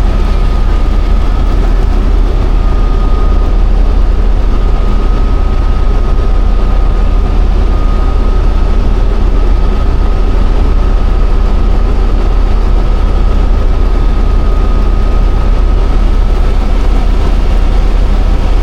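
Helicopter cabin noise in flight: a steady, loud deep rumble of the rotors and engine with a constant high whine over it.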